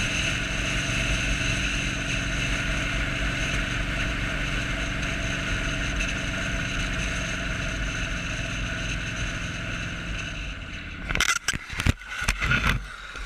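Motorcycle engine running at a steady speed, then, about eleven seconds in, several hard impacts in quick succession, typical of the bike crashing.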